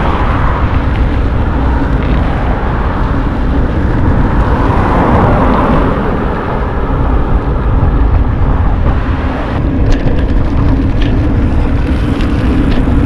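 Steady loud rumble of wind buffeting the microphone, with tyre and road noise while riding a bicycle; a few light clicks about ten seconds in.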